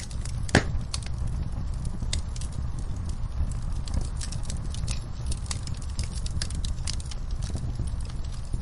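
Campfire crackling: a dense, irregular scatter of small sharp pops over a low steady rumble, with one louder pop about half a second in.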